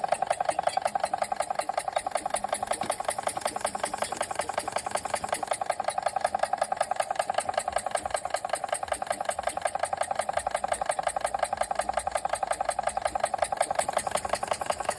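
Machinator Steamfire toy steam engine, a single oscillating cylinder with a heavy flywheel, running steadily under steam at a kind of slow speed: a fast, even beat of strokes.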